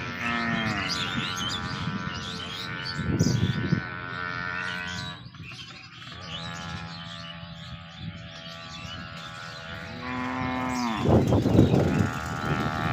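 TVS Max 100R motorcycle engine running hard on a flyby. Its pitch drops just after the start, holds lower through the middle, and rises again about ten seconds in as it revs up.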